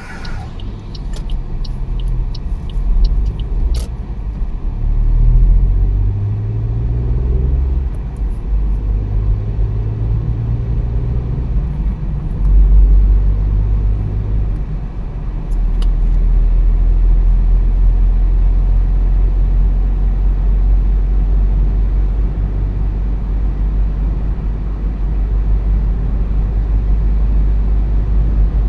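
Car engine and road rumble while driving. The engine pitch climbs and steps as it picks up speed through the gears over the first dozen or so seconds, then holds at a steady cruise. A quick series of sharp clicks sounds in the first few seconds.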